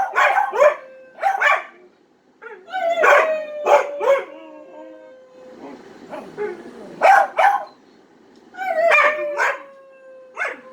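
Dog 'talking': a run of howling, yowling cries mixed with short sharp yips, the sort of vocal mimicry of 'I love you' that such dogs are coaxed into. It comes in three bouts, with long wavering tones that slide slowly downward in the middle and at the end.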